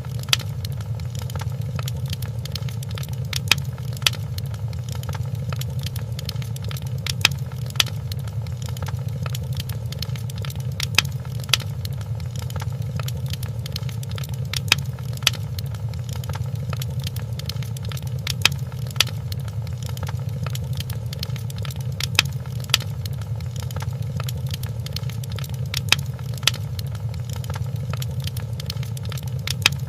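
Wood fire crackling in a fireplace: a steady low rumble of the flames with sharp pops, coming in pairs about every four seconds in an evenly repeating pattern.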